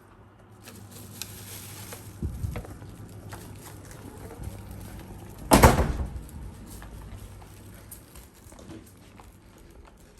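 Handling of a takeaway breakfast box and its packaging: light rustling and small clicks, a soft thump, and one loud knock a little past halfway.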